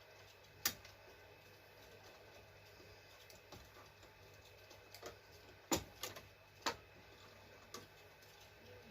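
A handful of sharp, short metallic clicks and taps from parts and tools being handled while fitting a part to a cylinder head, one near the start and a cluster in the second half, the loudest just before the six-second mark.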